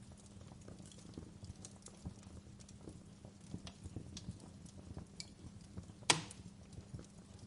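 Fireplace crackling: irregular small snaps and ticks over a low steady hum, with one sharp, much louder pop about six seconds in.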